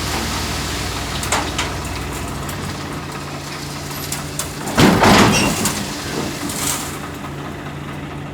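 Swaraj 855 FE tractor's three-cylinder diesel engine running steadily, with a couple of sharp knocks in the first two seconds and a short, loud rush of noise about five seconds in.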